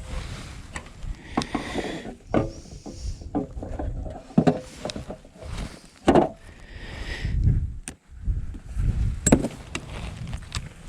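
Irregular knocks and clunks of gear being handled on a kayak, over a low rumble.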